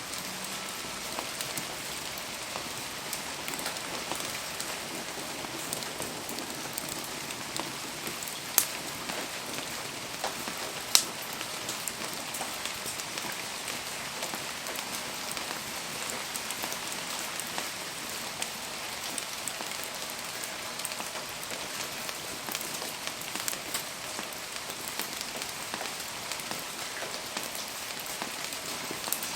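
Steady rain falling, a dense patter of drops, with two sharper pops: one about eight and a half seconds in and one about eleven seconds in.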